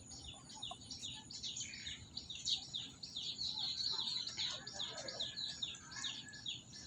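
Birds chirping: rapid, repeated high chirps that each slide downward, about four or five a second without a break.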